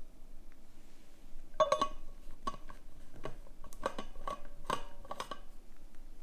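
Tea things clinking: a string of about eight light taps and clinks of cups and utensils, each ringing briefly, starting about a second and a half in.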